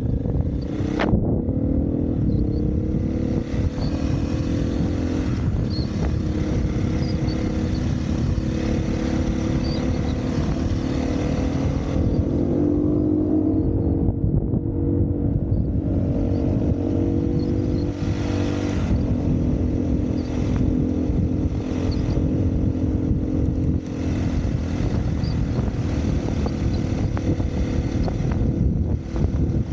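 Dirt bike engine running under way, its note wavering up and down a little with the throttle, over steady wind rush on the microphone.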